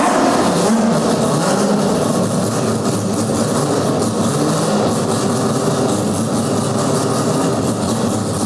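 Mazda 767B's four-rotor rotary racing engine idling loudly. Its pitch wavers for the first couple of seconds, then it runs steady.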